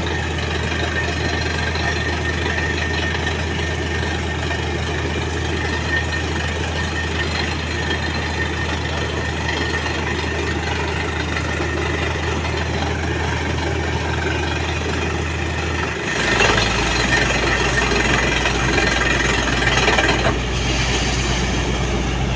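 Diesel engine of a truck-mounted borewell drilling rig running steadily. About two-thirds of the way through, its note drops lower and a louder rushing noise joins for a few seconds.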